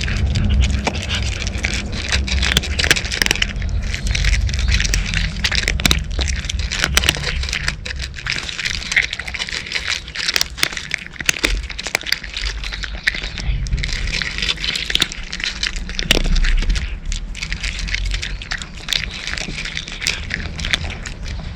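Cats crunching and chewing dry kibble, a dense, continuous run of small crisp cracks.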